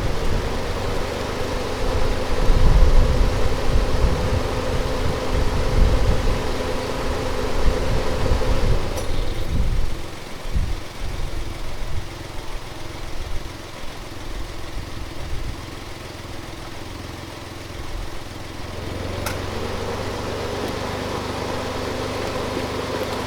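Car engine running with a steady hum over a low rumble; it turns quieter about ten seconds in and the hum comes back near the end.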